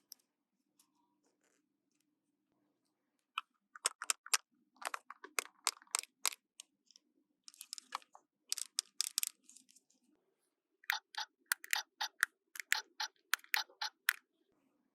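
Small plastic toy pieces being handled, clicking and crackling in quick, irregular bursts, with a pause about two-thirds of the way through.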